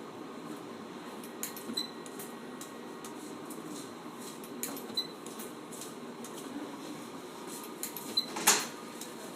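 Automatic spot welding machine cycling over a steady hum: a pair of sharp mechanical clacks about every three seconds, the loudest pair near the end.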